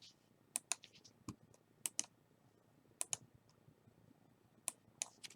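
Faint, scattered clicks at a computer while the randomizer is being set up: about a dozen short, sharp clicks spread out with gaps between them, several coming in quick pairs.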